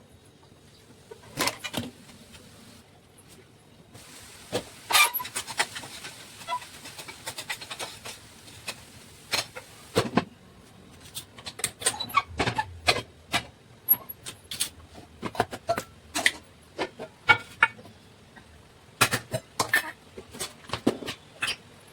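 Kitchen utensils being handled while cooking: irregular knocks, taps and clinks, with a soft hiss that lasts a few seconds, starting about four seconds in.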